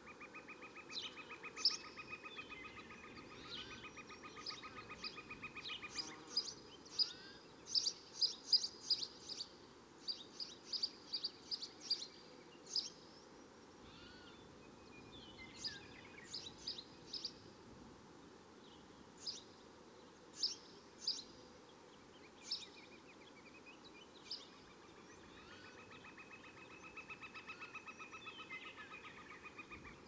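Faint small-bird chirping: runs of short high chirps throughout, over a steady pulsing buzz at the start that stops about six seconds in and returns near the end.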